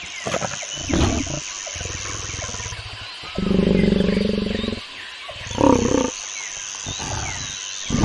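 Lion roaring: a few short low grunts at the start, then one long deep roar about three and a half seconds in, which is the loudest sound, and a shorter one about two seconds later.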